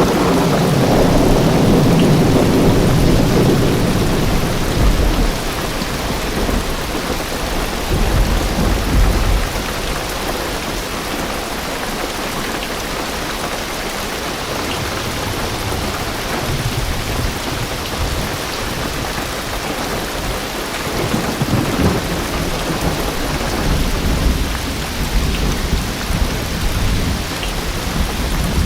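Heavy rain drumming on a car roof and windows, heard from inside the car, with thunder rumbling: a long rumble swells over the first few seconds, another comes about eight seconds in, and weaker rumbles follow near the end.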